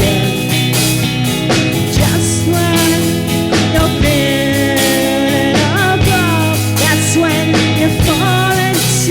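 Psychedelic rock music with no sung words: a lead line bending and sliding in pitch over sustained bass notes and regular drum hits.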